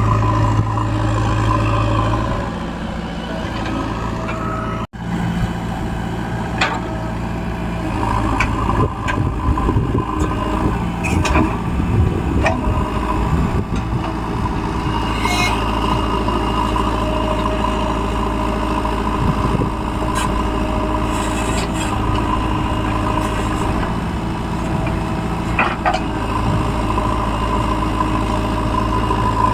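Diesel engines of backhoe loaders and trucks running at a loading site, with a steady low drone and short metallic knocks now and then. The sound drops out briefly about five seconds in.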